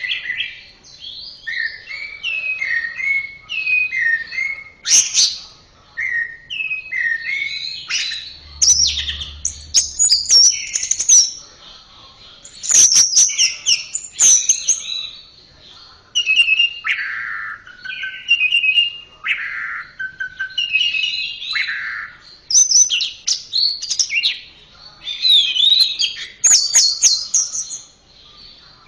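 Orange-headed thrush singing a long, varied song of short whistled and warbled phrases, some falling and some rising, with sharp clicks mixed in and brief pauses between phrases.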